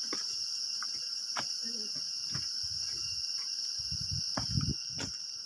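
Steady high-pitched buzzing chorus of insects, with scattered sharp clicks and a few dull low thumps about four seconds in.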